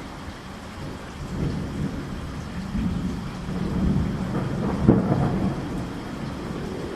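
Thunder rumbling over steady rain: the low rumble swells over a few seconds and peaks in a sharp crack about five seconds in, then dies back to the hiss of rain.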